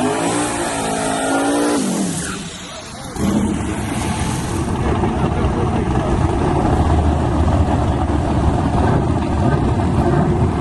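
S10 drag truck engines at the strip: one engine's note at high revs drops away about two seconds in, and after a brief lull a rough, steady engine sound comes in and carries on.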